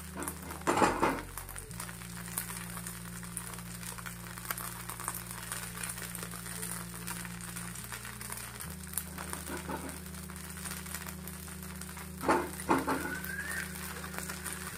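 Dosa sizzling on a hot, oiled pan: a steady frying hiss under background music of held low notes. Two brief louder sounds come about a second in and again near the end.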